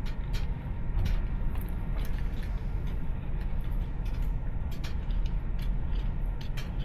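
Slot cars running around the track: a steady low rumble with many short, sharp clicks and clatters throughout.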